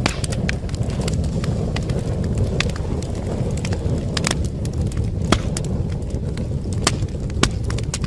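Wood fire burning in a fireplace: a steady low rumble under irregular sharp crackles and pops, a few louder snaps among them.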